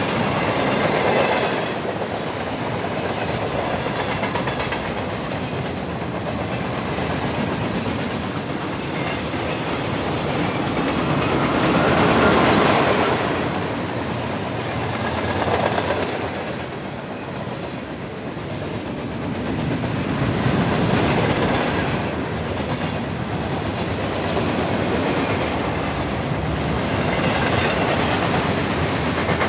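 Freight cars of a CSX train rolling past at track speed, with the wheels clacking over the rail joints. The rumble rises and falls in level as the cars go by.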